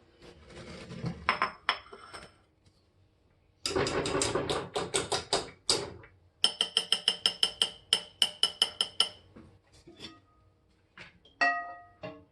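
Kitchen utensil knocking and scraping in a metal cooking pot of freshly cooked lemon pastry cream. There is a clatter, then a dense scraping stretch, then a quick run of ringing metallic strikes at about seven a second, and a single bright clink near the end.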